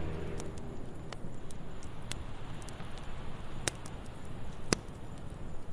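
Wood fire crackling in a fireplace: a soft steady hiss with scattered sharp pops at irregular intervals, the loudest nearly five seconds in. The last of a song's music fades out in the first moment.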